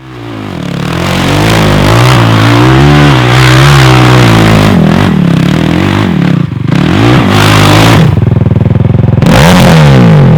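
Kawasaki KFX 450R quad's single-cylinder four-stroke engine revving hard, its pitch rising and falling over and over as the throttle is worked on and off. The sound fades in at the start.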